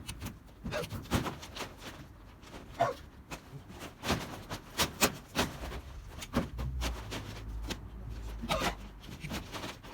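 Corrugated tin roofing sheets being handled and loaded, giving an irregular clatter of metal knocks and bangs, some ringing briefly, over a low rumble.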